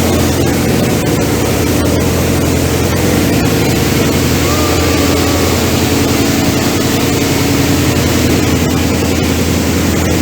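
Passenger water bus's engines running at a steady cruising drone, with water rushing past the hull and wind.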